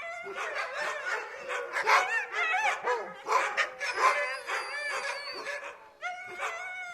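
Several dogs barking in quick, overlapping barks, with a short lull about six seconds in.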